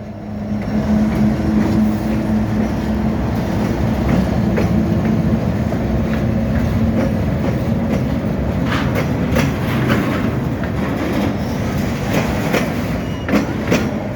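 BNSF EMD SD70ACe diesel locomotive going by, its 16-cylinder two-stroke engine droning steadily. From about eight seconds in, sharp clicks and clatter of wheels over the rail joints join the rumble.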